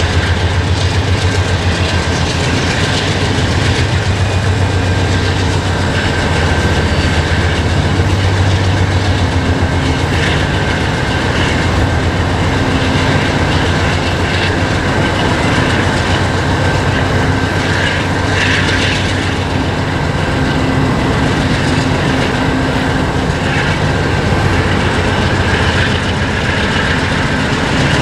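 Freight train hauled by three diesel locomotives (Norfolk Southern and Canadian Pacific GE units) rolling across a concrete arch bridge. The low diesel drone is strongest for the first nine seconds or so, then the steady rumble and clickety-clack of the freight cars takes over.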